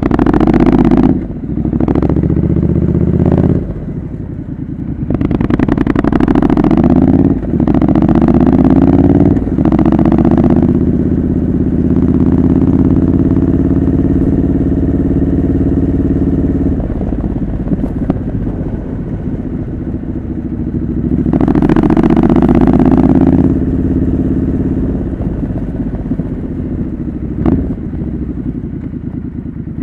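Triumph Scrambler 900's parallel-twin engine through a homemade exhaust, accelerating up through the gears with several quick shifts, then running steadily at cruise. It picks up speed once more about three-quarters of the way through.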